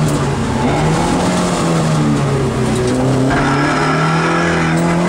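Rally car's engine heard from inside the cockpit, running at fairly steady revs with small rises and dips in pitch. A higher steady whine joins about three seconds in.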